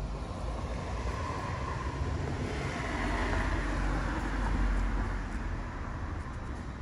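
Continuous rumble and hiss that swells to a peak about two thirds of the way in and then eases off, like traffic going past.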